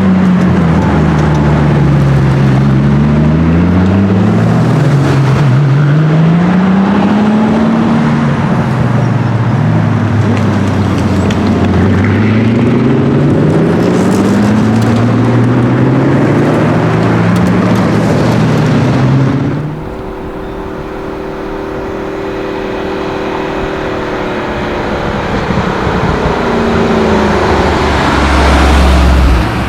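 Supercar engine accelerating hard through the gears, its note climbing and then dropping back with each upshift, several times over. About two-thirds of the way through the sound cuts to a quieter, steady engine note that swells toward the end as a car approaches.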